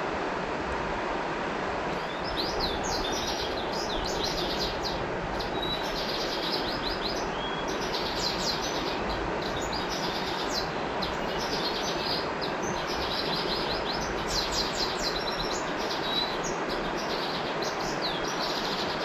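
Steady rush of a flowing river, with a songbird singing rapid, chattering trills over it from about two seconds in until shortly before the end.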